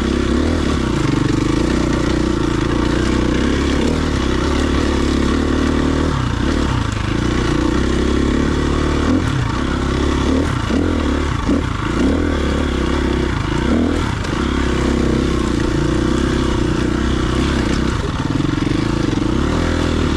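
Dirt bike engine running while riding a trail, held at a steady note, with a stretch of on-off throttle in the middle where the note dips and picks up several times.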